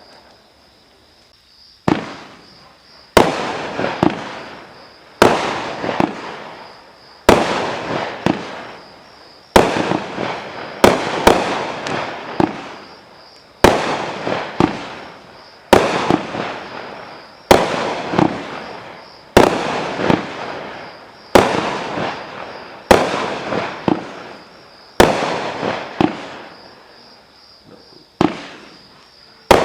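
A 500-gram consumer fireworks cake firing shot after shot. After a quiet first two seconds, a sharp bang comes about every two seconds, a few of them in quick pairs, and each one dies away over a second or so.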